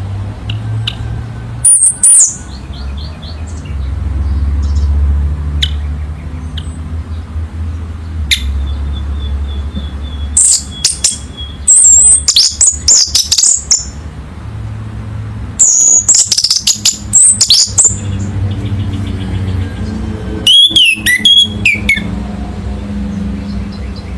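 Orange-headed thrush singing loud, rapid, varied high-pitched phrases in several bursts separated by pauses, over a steady low hum.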